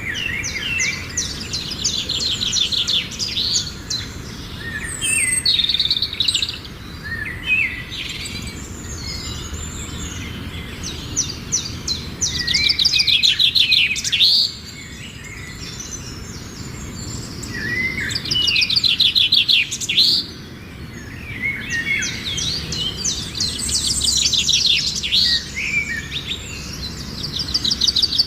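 Several songbirds singing at once, with overlapping chirps and fast trilled phrases that repeat every few seconds, over a steady low background rumble.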